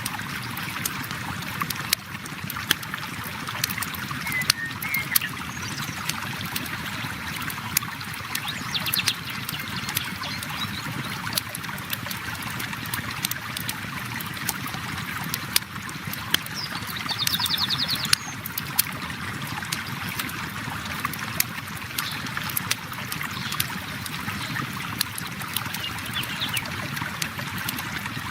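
Flowing river water making a steady rush, overlaid with the frequent sharp pops and crackles of a campfire. A few brief high-pitched trills come through, about a third of the way in, a little past halfway and near the end.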